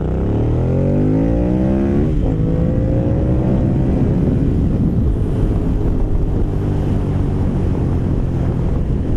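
Aprilia Caponord 1200's 90-degree V-twin, breathing through a GPR Furore carbon slip-on, accelerating hard at part throttle: the engine note climbs steeply, drops at an upshift about two seconds in, then climbs again. From about four seconds in, rushing wind noise grows and covers much of the engine.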